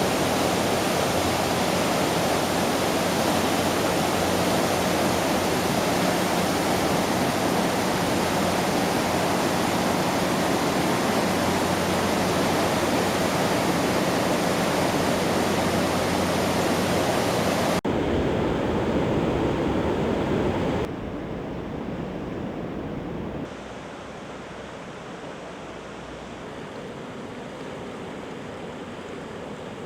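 Floodwater rushing, a loud steady roar of moving water. It changes abruptly about two thirds of the way through and then steps down quieter twice.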